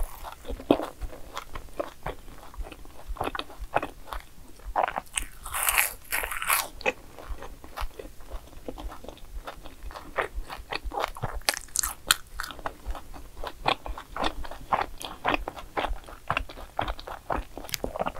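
Close-miked chewing of a crisp fried snack: a steady run of small crunches and bites, louder and sharper for a moment about six seconds in.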